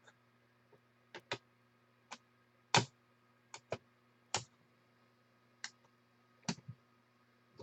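Computer mouse clicking: about a dozen short, sharp clicks at irregular intervals over a faint steady electrical hum.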